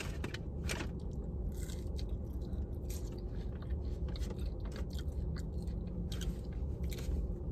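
Close-up chewing and biting of french fries, with scattered soft crunches and mouth clicks. A low steady rumble of the car interior runs underneath.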